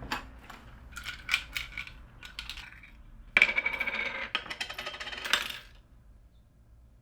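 Small metal objects jingling and clinking: scattered light clinks for the first few seconds, then a louder jingle lasting about two seconds before it stops.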